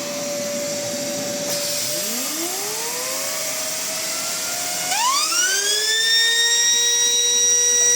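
LEGO vacuum engine spinning up over the steady hum and hiss of the suction driving it. Its whine rises in pitch from about two seconds in, climbs sharply near the middle and then holds a high, steady pitch at about 30,000 RPM.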